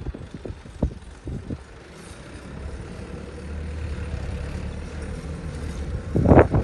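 Tractor engine approaching and passing, its low rumble growing steadily louder, with a loud burst of engine noise near the end. A few sharp knocks sound in the first second or so.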